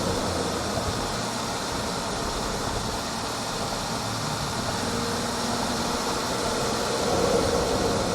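B58 turbocharged inline-six of a BMW 440i, heard through its aftermarket front mount intake at the intake mouth: a steady rush of intake air over the engine's running note, swelling slightly about seven seconds in.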